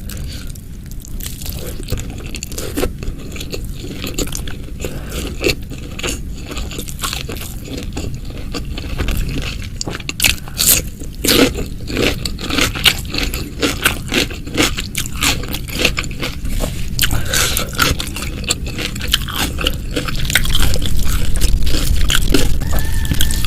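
Close-miked eating: a person biting and chewing crunchy food with many crisp crunches, densest about halfway through, and louder toward the end.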